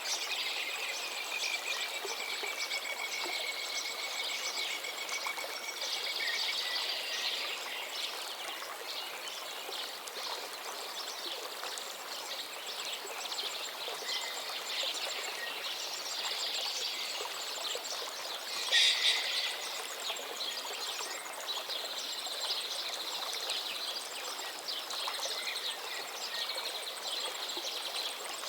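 Birds chirping and singing over the steady rush of running water. A long trill comes in the first few seconds, and a sharper, louder call comes about two-thirds of the way through.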